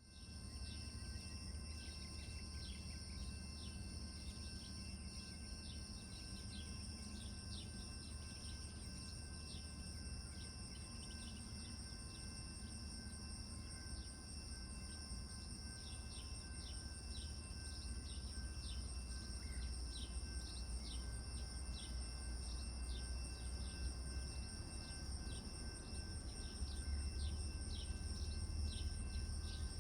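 Insects trilling in two steady high-pitched bands, with many short chirps repeating throughout, over a low steady rumble.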